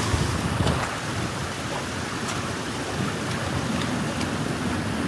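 Water rushing steadily through a breach dug in a beaver dam.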